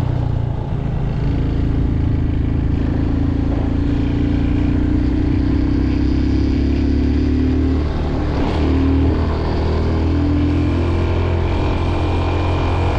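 Motorcycle engine running steadily under way, its note drifting slowly lower for a few seconds, over a constant rushing noise of wind and road.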